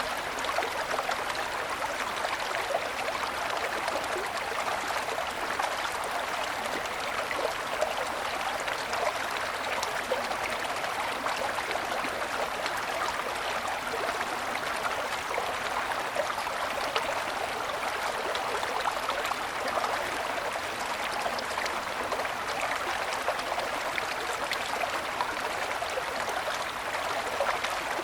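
A small mountain stream running over snow-covered stones, a steady babble and trickle of water.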